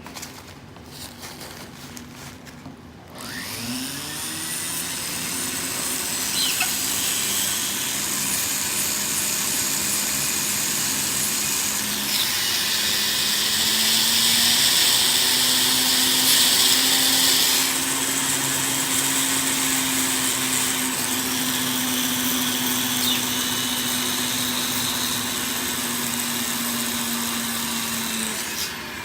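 Small rotary grinding tool trimming a small parrot's nails and beak. It spins up about three seconds in, rising in pitch, then runs steadily. From about twelve to seventeen seconds a harsher grinding sound rides over it as it bears on the beak or nails, and it stops just before the end.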